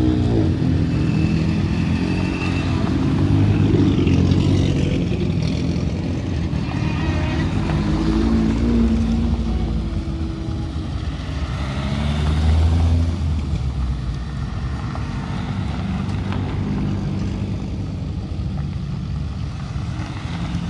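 Classic rally cars driving slowly past one after another, their engines running and swelling then fading as each car goes by, loudest about a few seconds in and again just past the middle.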